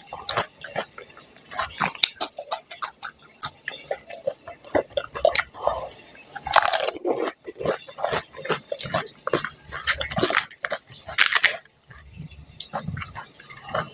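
Close-miked eating: pani puri being bitten and chewed, with crisp crunches and wet mouth clicks coming thick and fast, and two louder noisy bursts, one about halfway through and one near the end.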